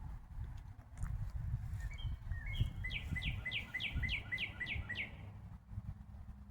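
Northern cardinal singing: a series of about eight quick down-slurred whistled notes, roughly four a second, starting about two seconds in, over a low steady background rumble.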